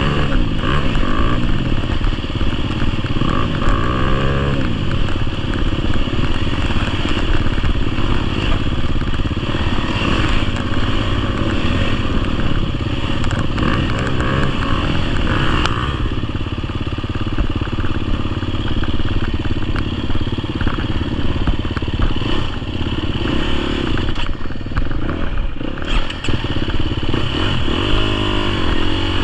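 2025 GasGas EX250F's 250cc single-cylinder four-stroke engine running under load on a trail ride, the revs rising and falling with the throttle several times, with clattering of the bike over rough ground.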